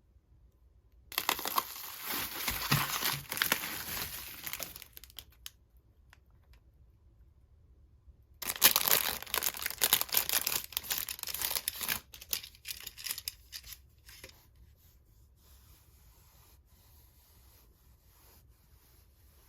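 Parcel packaging being torn open and crinkled, in two spells of several seconds each, followed by faint handling rustles.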